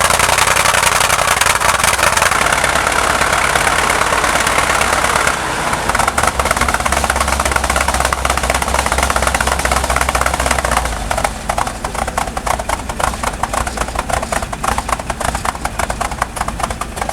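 M5A1 Stuart light tank's Cadillac V8 engine running with a rapid, even exhaust pulse. About five seconds in the sound changes to a deeper rumble, and the pulses grow more distinct toward the end.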